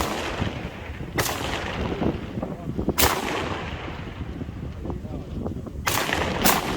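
Rifle shots fired one at a time at irregular intervals, five in all, each a sharp crack with a short echoing tail.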